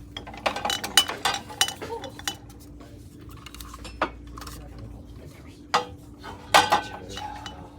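Glass and china dishes clinking and knocking as pieces are handled and set down on a shelf: a quick run of clinks in the first couple of seconds, a few single knocks, then a louder cluster near the end.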